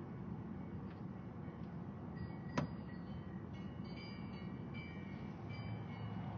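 Steady low rumbling noise, with one sharp click about two and a half seconds in and faint high chirping tones after it.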